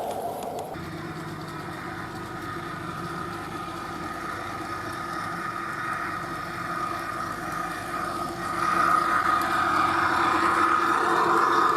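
G-scale model diesel locomotive running on a garden railway, a steady mechanical hum with a high whine that grows clearly louder about eight and a half seconds in as the train draws near.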